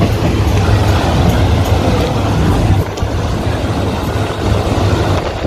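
Steady low rumble of a passenger train running on the rails, heard from inside a carriage with its windows open.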